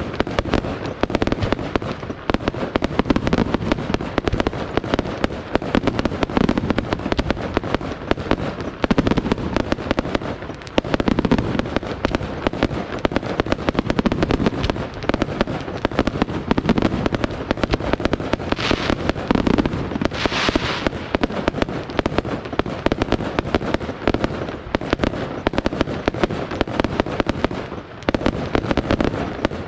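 Fireworks display going off without a break: a rapid, dense string of bangs and crackling. A couple of hissing streaks come through about two-thirds of the way in.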